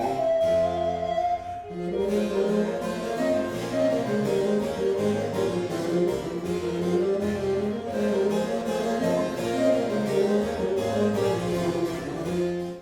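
Baroque chamber music: a harpsichord playing with sustained wind melody lines, a recorder above and a bassoon below. The music breaks off abruptly at the very end.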